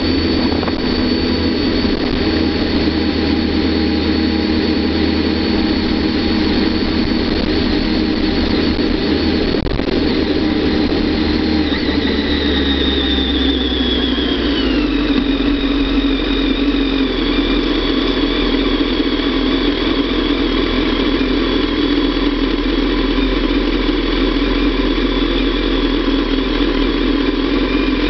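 Kawasaki ZX-10R's inline-four engine running steadily at low road speed, with a high whine above it; the engine note and whine drop in pitch about halfway through as the bike slows.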